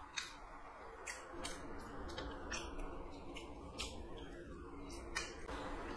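Close-miked chewing of chicken liver curry eaten by hand: wet, smacking mouth clicks at irregular intervals, about two a second, over a faint steady hum.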